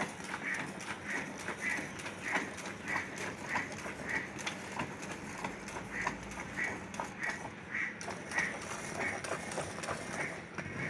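Milk squirting into a pail as a cow is milked by hand: short hissing squirts in a steady rhythm, a little under two a second.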